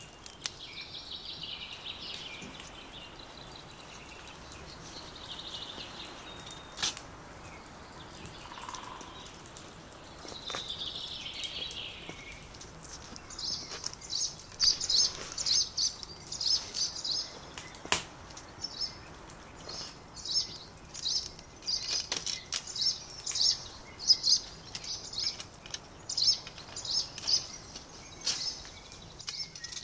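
Small birds chirping in an orchard, faint at first, then a busy run of quick high chirps from about halfway through. A few sharp clicks sound now and then.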